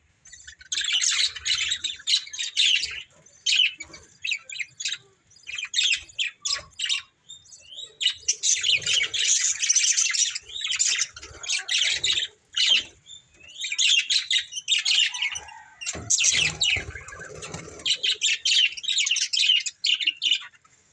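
Budgerigars chattering and chirping in rapid, overlapping runs, broken by short pauses, with occasional squawks.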